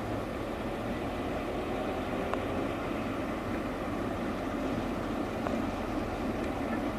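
Diesel locomotive running steadily, with a faint click or two.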